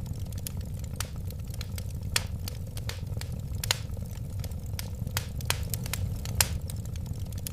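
Wood fire burning: a steady low rumble of flames with sharp crackles and pops at irregular moments, a few of them louder.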